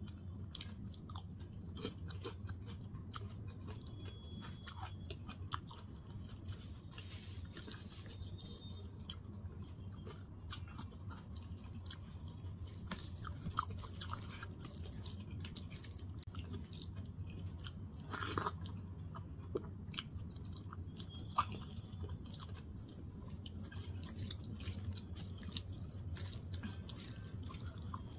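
Close-up chewing of a soft mouthful of rice and dal, with small wet mouth clicks and smacks, and fingers mixing rice and dal on a steel plate, over a steady low hum.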